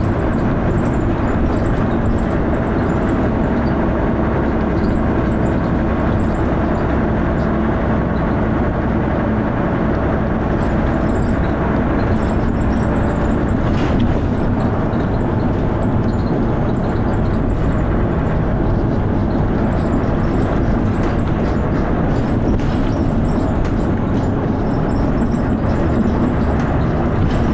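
Dennis Arrow double-decker bus's diesel engine heard on board while the bus is driving: steady, loud engine thrash mixed with road and body noise, from a bus known for a knocking noise.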